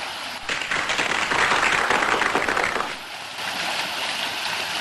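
Rushing wind and tyre noise from a mountain bike descending fast on a rough mountain track. It grows louder about half a second in, eases around three seconds, then builds again.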